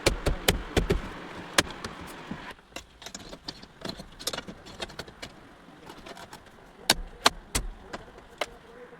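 Scattered clicks and knocks of a car's instrument cluster and dashboard plastics being handled and fitted by hand, with heavier knocks in the first second and again about seven seconds in.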